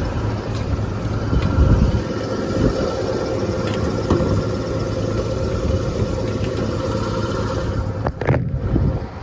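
1986 Ford F-150 engine idling steadily, still warming up after a hard cold start. A sharp knock about 8 seconds in, after which the sound turns duller.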